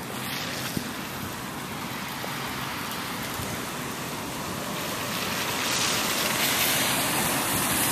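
Steady rushing noise of heavy rain and runoff water flowing over a flooded street, growing louder about five seconds in.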